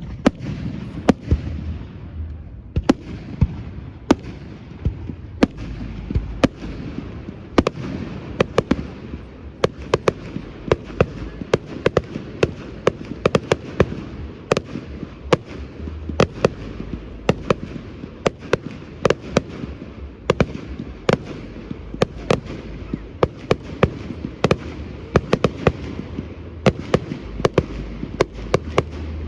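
Fireworks display going off continuously: rapid sharp bangs and crackles, several a second, over a constant rumble of bursting shells.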